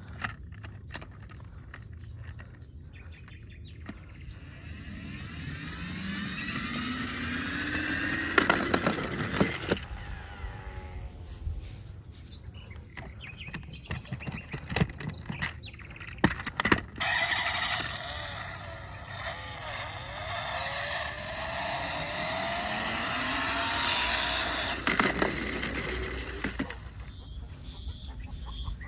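A car engine revving up twice, its pitch climbing each time over several seconds, with scattered clicks and knocks in between.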